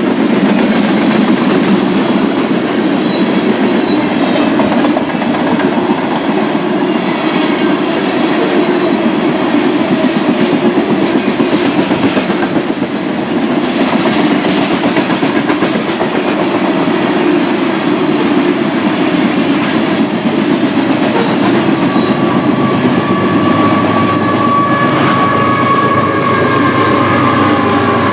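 BNSF grain train of covered hopper cars rolling past, wheels clicking over the rail joints in a steady rumble. In the last several seconds a steady high tone of several notes joins in and holds to the end.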